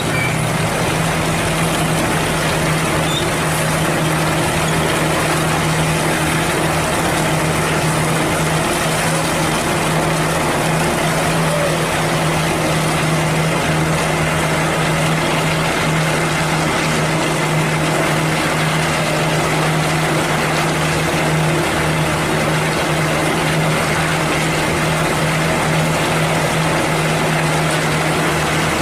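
Diesel engine of a Hino cement mixer truck running steadily at constant speed, a continuous low hum that holds unchanged throughout.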